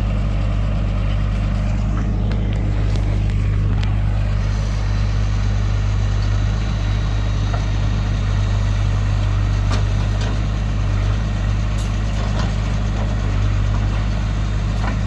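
Tractor engine running at a steady speed, a deep even drone, with a few faint clicks and knocks.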